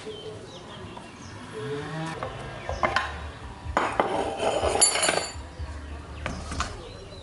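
Metal clinking and clattering: a sharp ringing knock about three seconds in, then a cluster of knocks and clinks between four and five seconds in, over a steady low hum.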